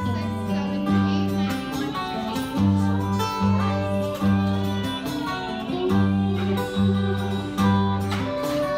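Instrumental break in an acoustic song: acoustic guitar playing, with low notes repeating in a steady rhythm underneath.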